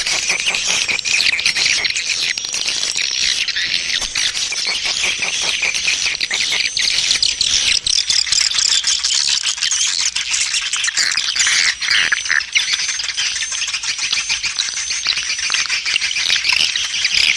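Dense chorus of swiftlets calling: many high chirps and twitters with rapid clicks, overlapping without pause, as in a swiftlet lure (call) recording.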